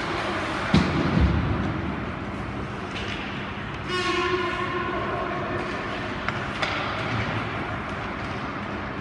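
Ice rink horn sounding one steady tone for about two seconds, about four seconds in, over the noise of the rink, with a couple of low thuds about a second in.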